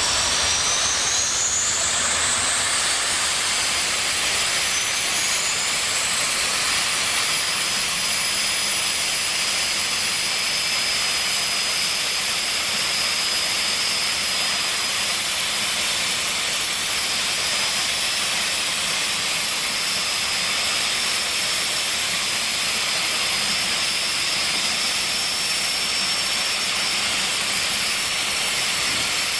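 Jet drag racing car's turbine engine running with a steady hiss and a high whine. The whine climbs in pitch during the first couple of seconds and again about six seconds in as the turbine spools up, then holds steady.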